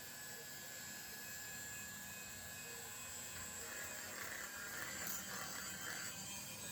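Small electric sander running with a steady whine, sanding rust off a metal RC shock body; the sanding hiss thickens from about halfway through.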